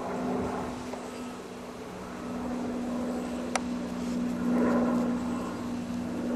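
Robinson helicopter flying over, a steady low drone that grows louder about two thirds of the way through. A single short sharp click sounds just past the middle.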